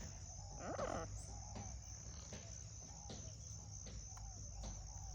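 Steady high-pitched insect chirring, with short soft chirps repeating about once a second and a brief louder burst of calls about a second in.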